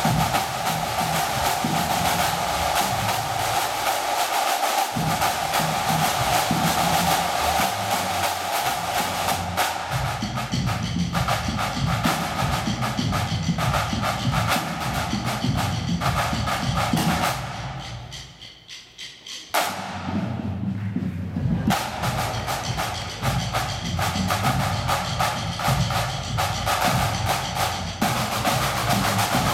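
Pipe band drum corps playing a drum salute: crisp, rapid high-tension snare drumming over a bass drum part. About 18 seconds in the playing drops to a near-silent break for about two seconds, then starts up again.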